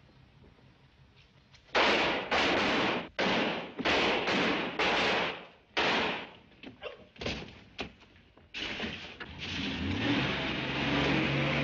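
A rapid string of loud bangs, about seven in four seconds with a few fainter ones after, then a car engine starting and running steadily from about two-thirds of the way in.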